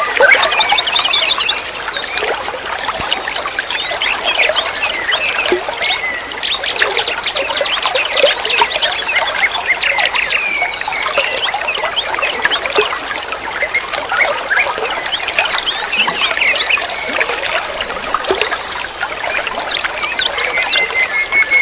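A songbird singing a long, continuous chattering song of rapid varied chirps and trills, with a few short held whistled notes mixed in.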